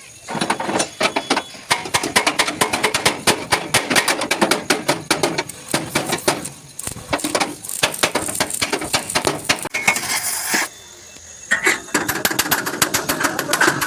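Rapid, irregular metallic strikes on a truck cabin's sheet-metal panel as a dent is beaten out, several blows a second, with a short pause about three quarters of the way through.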